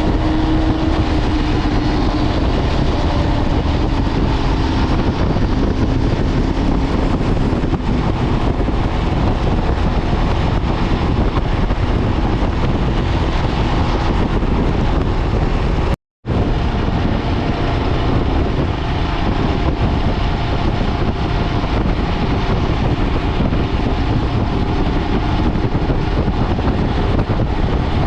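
Loud, steady wind rush on the microphone, mixed with road and engine noise from a moving motorcycle. Partway through, the sound cuts out for a split second.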